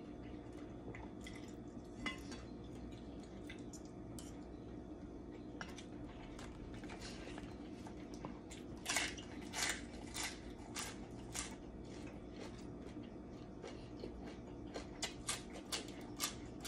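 Close-up eating sounds: crunchy bites and chewing of raw green vegetables and salad, with scattered clicks of a fork and spoon on a metal plate, loudest in a few crunches about halfway through and a run of them near the end. A steady low hum lies underneath.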